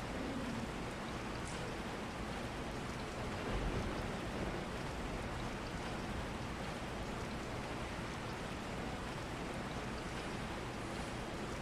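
Steady rain falling, an even hiss of drops, with a brief low rumble about three and a half seconds in.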